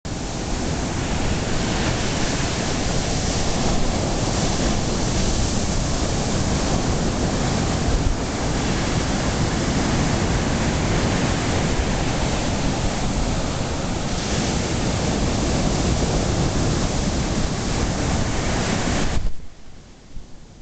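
Ocean surf breaking, with wind buffeting the microphone, making a steady loud rush. It drops abruptly to a much quieter rush near the end.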